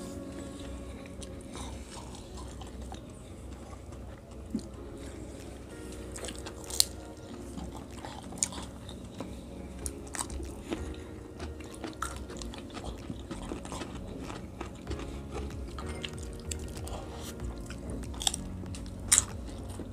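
Close-miked chewing and crunching of crispy fried lumpiang shanghai spring rolls, with scattered sharp crunches, two of the loudest about a third of the way in and near the end, over soft background music.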